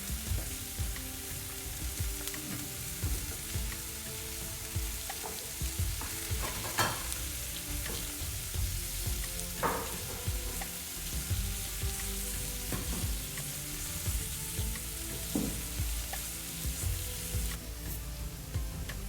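Food frying and sizzling in a pan, with a utensil stirring and scraping against it now and then.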